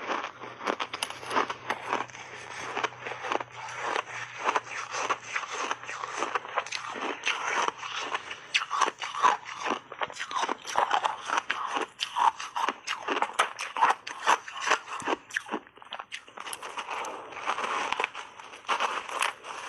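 Refrozen block ice being bitten and chewed in big bites: steady, loud crunching made of many sharp cracks, several a second.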